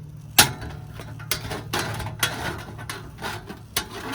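A series of sharp clicks and knocks from camp cooking gear being handled on a small metal table, the loudest about half a second in.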